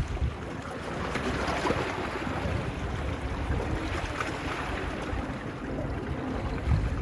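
Small sea waves lapping and splashing at the shore, with wind buffeting the microphone in low gusts.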